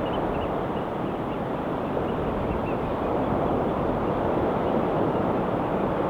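Ocean surf washing steadily against a rocky shore, an even, unbroken rush of water.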